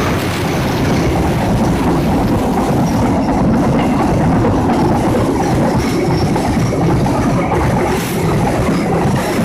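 A train running past at close range: a loud, steady rumble of wheels on the rails.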